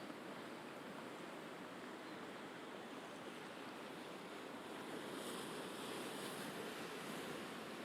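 Mediterranean waves washing on the shore, a steady wash that swells and brightens a little past the middle.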